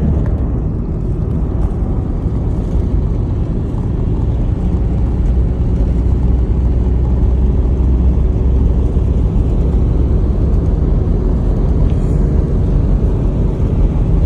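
A motor vehicle driving, a steady low engine and road rumble.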